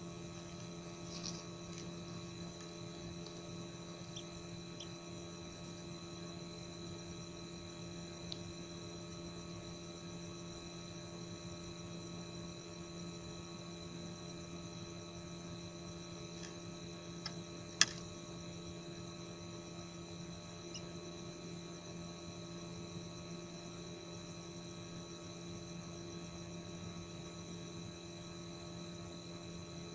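Steady electrical hum with a thin high tone above it, a few faint short ticks or squeaks, and one sharp click about eighteen seconds in.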